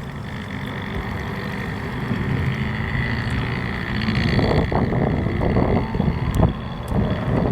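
Honda CBX motorcycle engine running through its exhaust, steady at first, then blipped several times from about four seconds in.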